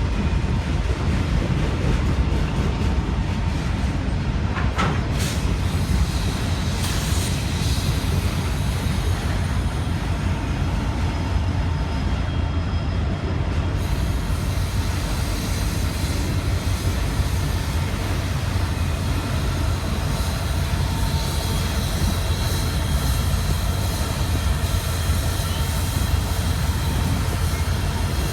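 Norfolk Southern freight train passing close by: a loud, steady rumble of locomotives and rolling freight cars on the rails, with a single sharp clank about five seconds in.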